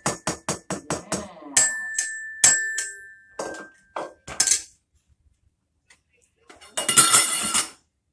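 Toy percussion being played: a rapid run of even taps, about six a second, that stops about a second in, then a strike that rings on with a steady metallic tone for about three seconds amid a few more knocks. Near the end comes a one-second burst of shaken jingling, like a toy tambourine.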